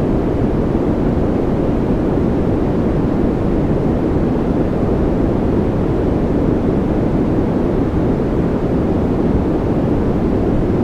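Continuous synthetic sleep noise, sold as white noise, holding perfectly steady with no changes. Its energy sits mostly in the low range, so it is a deep, rumbling rush rather than a bright hiss.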